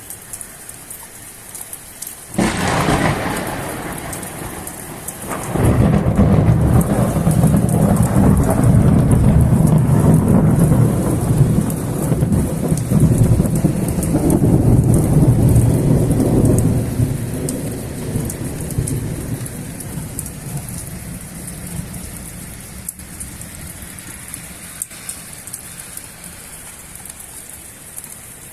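Steady rain with a sharp thunderclap about two seconds in. A loud rolling rumble of thunder follows a few seconds later and slowly fades away over the next dozen seconds.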